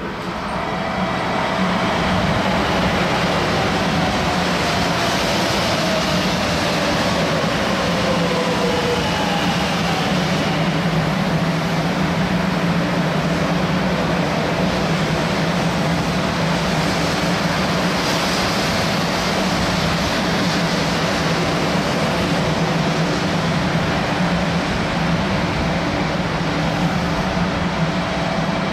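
JR West 500 series Shinkansen (500 TYPE EVA) running past: a steady rumble and rush of wheels and air that builds over the first couple of seconds and then holds. A whine falls in pitch over the first several seconds.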